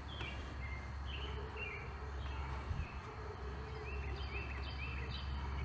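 Birds chirping again and again over a steady low hum. No gurgle comes from the opened coolant bleeder vent: no air escapes, so the system is full at that point.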